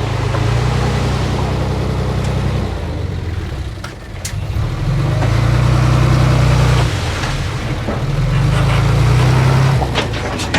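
Diesel engine of earthmoving machinery working under varying load: it eases off about three seconds in, then pulls harder in two long surges. A few sharp clicks or knocks sound over it, one near the middle and some near the end.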